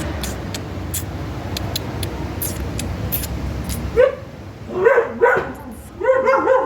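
A dog yipping and whining: four short high cries in the last two and a half seconds, the last one longer and wavering. Before them there is a steady low rumble with scattered crackles.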